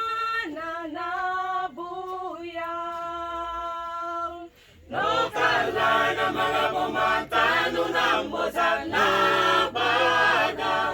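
A single voice sings a few long held notes, then after a short break about four and a half seconds in, a church choir comes in singing a cappella in several-part harmony.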